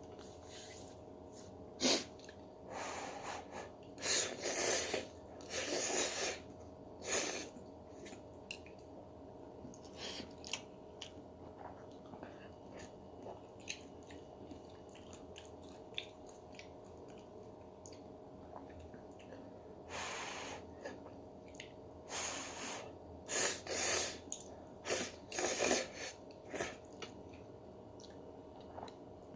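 Ramen noodles being slurped and chewed: a series of short slurps comes in two clusters, with small clicks between them. A faint steady hum runs underneath.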